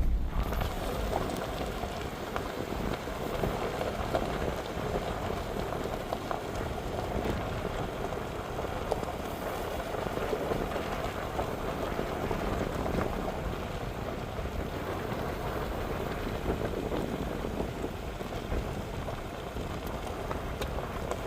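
Ford Super Duty pickup driving on a gravel road: steady tyre-on-gravel noise sprinkled with many small ticks and rattles of stones.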